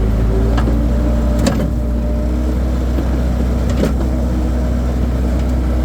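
Skid steer engine running steadily under work, with a few short clanks or knocks, the loudest about a second and a half in and another near four seconds.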